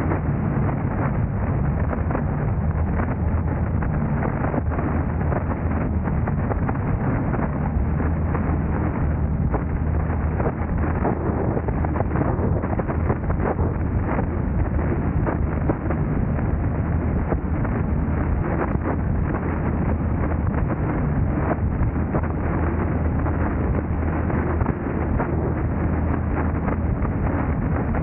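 Steady road and wind noise from a moving car, with a low hum and frequent small clicks and rattles.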